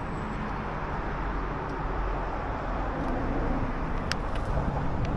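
Steady outdoor rumble of vehicle traffic, with a few faint clicks about four seconds in.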